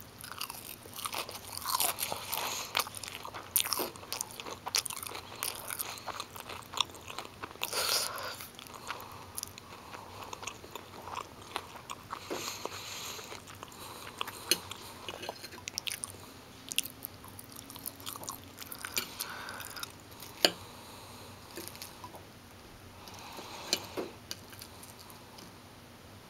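Close-up chewing of crispy breaded fish sticks: crunching and crackling bites, busiest in the first ten seconds. A single sharp click comes about twenty seconds in.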